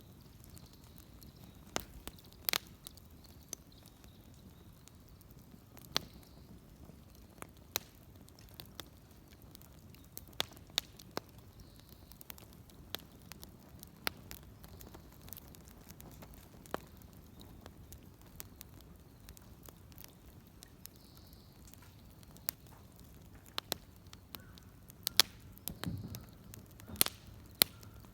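Wood fire crackling, with sharp irregular pops and snaps, a few louder and closer together near the end.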